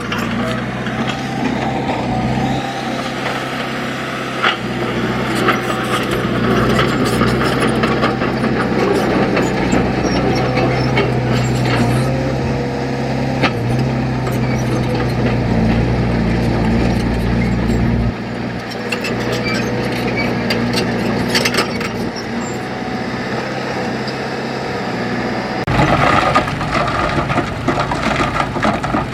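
Engine of heavy earthmoving machinery running steadily, with scattered knocks and clanks; the engine note shifts about two-thirds of the way through and again near the end.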